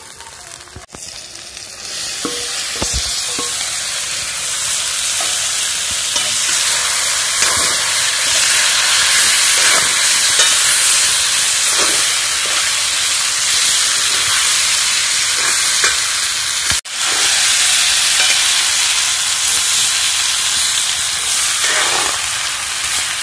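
Chicken frying in a black iron wok: a loud, steady sizzle, with the metal ladle scraping and stirring through the pieces now and then. The sizzle gets louder about two seconds in and cuts out for an instant about two-thirds of the way through.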